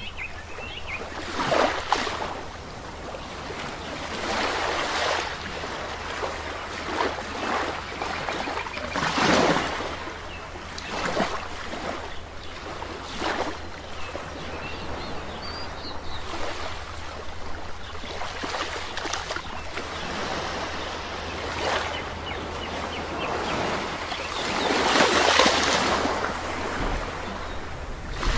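Sea waves washing onto a beach, the surf swelling and falling away every few seconds, with a bigger wash about a third of the way in and another near the end.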